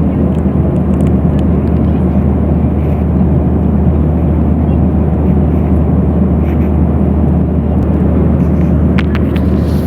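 Steady engine and airflow noise inside an airliner's passenger cabin in cruise flight, a deep even rush with a constant low hum.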